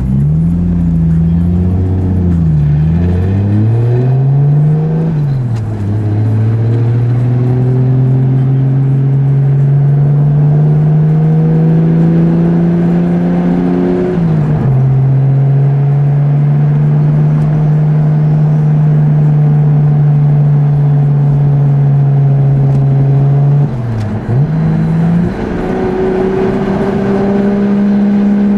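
Turbocharged car engine pulling hard at full throttle through the gears. The pitch climbs steadily in each gear and drops sharply at each of four shifts, with longer climbs in the higher gears.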